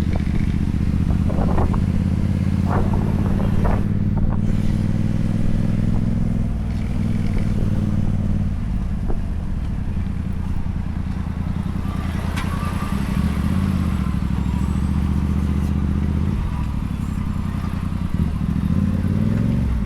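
Motorcycle engine running under way, its note easing off about six seconds in and again near sixteen, then picking up near the end, with wind and road noise over it.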